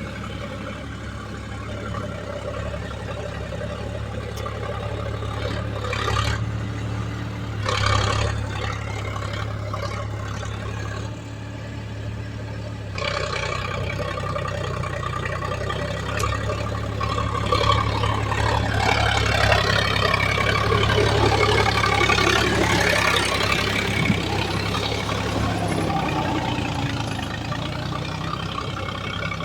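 Heavy diesel engine of a tractor or backhoe working, with a steady low drone. It surges briefly a few times, then runs louder and busier under load through the second half.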